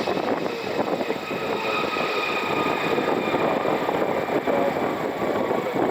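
Jet aircraft engine noise: a steady rush with a high whine that drifts slightly lower.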